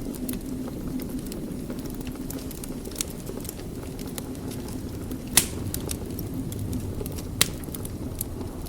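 Wood fire in a fireplace crackling over a steady low rumble, with scattered small snaps and two louder sharp pops about five and seven seconds in.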